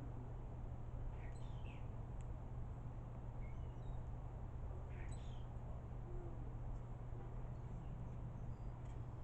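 Birds giving short, scattered chirps and calls, a few at a time with gaps between, over a steady low hum.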